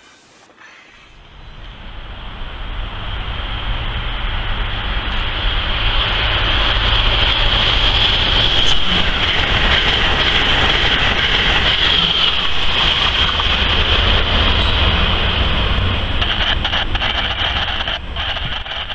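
Amtrak Acela Express high-speed electric trainset passing at speed: a loud rush of wheel and air noise with a low rumble and a steady high hiss. It builds over the first few seconds, holds, and fades near the end.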